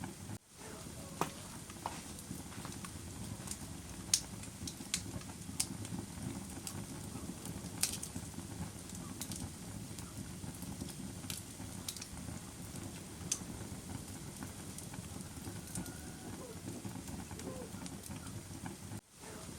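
Wood fire crackling: a steady low rumble of burning with sharp, irregular pops and snaps scattered throughout. The sound drops out briefly about half a second in and again near the end.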